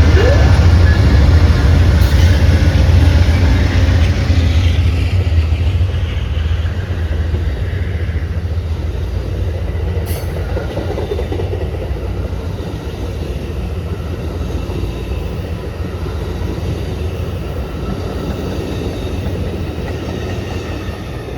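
A train running past on the tracks, with a heavy low rumble and some high steady squeal-like tones, loudest at the start and then fading over several seconds to a quieter, steady rumble as it moves away.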